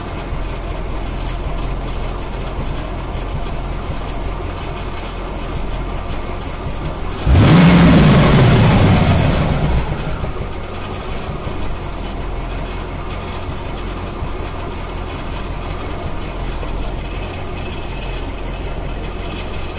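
1993 Corvette C4's V8 idling at low revs with a ticking and rattling of unknown cause. About seven seconds in the throttle is blipped once: the revs jump sharply and then slide back down to idle over a couple of seconds.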